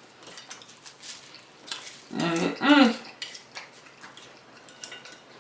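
Light clicks and clinks of cutlery against a plate or dish while eating. About two seconds in there is a short two-part hum.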